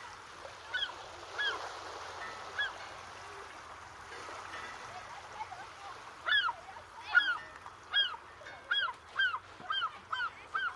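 Birds calling: short arched, honking calls, a few spaced ones at first and then a quick run of them, two or three a second, from about six seconds in, over a faint steady background wash.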